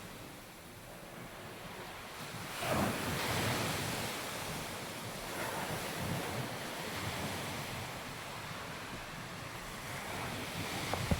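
Waves breaking and washing up a sandy beach, the surf swelling every few seconds, with wind on the microphone.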